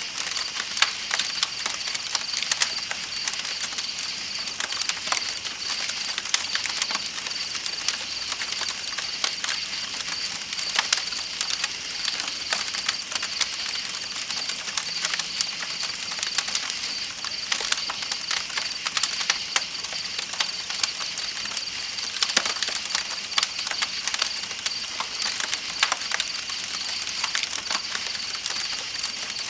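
Campfire crackling with frequent irregular sharp pops, over a steady high chirring of night insects and a soft hiss of flowing river water.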